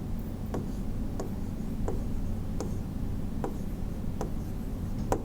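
A faint click roughly every three quarters of a second, over a steady low hum.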